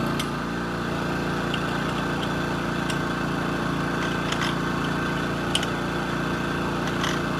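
An engine running steadily at an even speed, with a few faint clicks.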